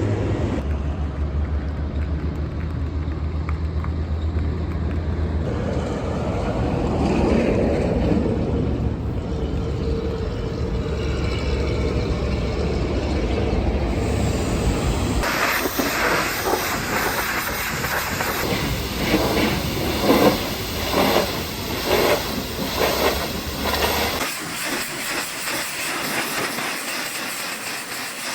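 Pressure washer spraying a heavily soiled truck: a steady hiss of the water jet over a low, even motor hum. The spray gets harsher and uneven from about halfway through, and the hum drops away near the end.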